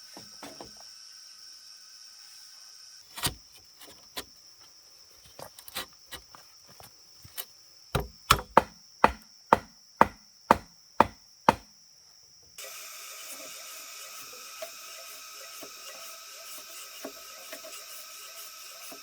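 Wood being chopped with a blade: a few scattered strikes, then a run of about eight hard, even chops roughly half a second apart, over a steady high insect drone. Partway through, the background switches abruptly to a broader steady hiss.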